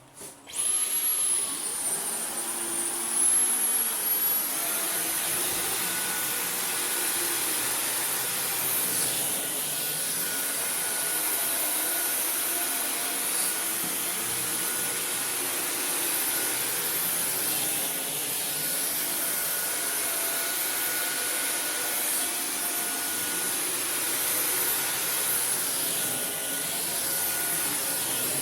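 Dyson V15 Detect cordless stick vacuum starting up and running on carpet, its motor giving a steady high whine. The pitch rises about a second in and steps up again about four and a half seconds in: the motor boosting its power as it detects dirt.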